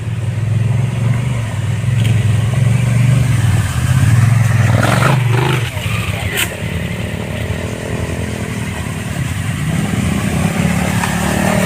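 Motorcycle engine running under throttle, easing off about halfway and picking up again near the end, with a sharp clack about six seconds in.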